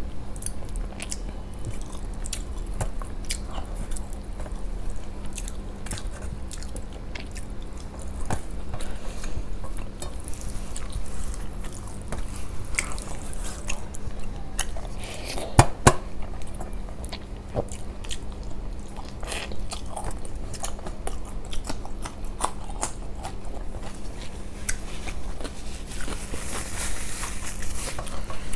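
Close-miked chewing and mouth sounds of someone eating rice and mustard pomfret curry by hand, with many small clicks and one sharper, louder click a little past the middle. A faint steady hum runs underneath.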